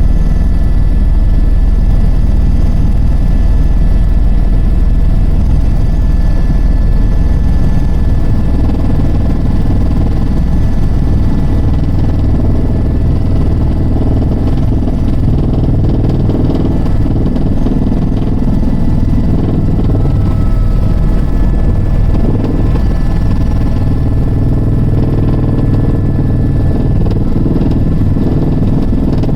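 Helicopter turbine and rotor noise: a loud, steady drone with a thin, high whine held above it.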